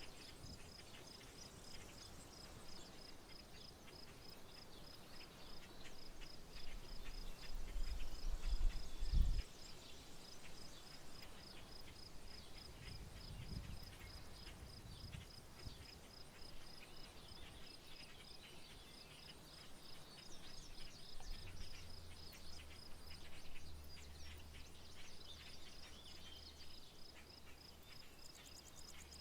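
Outdoor rural ambience of birds chirping and a high, rapid, evenly pulsing call. A low rumble builds and cuts off abruptly about nine seconds in, and a low steady hum sets in past the twenty-second mark.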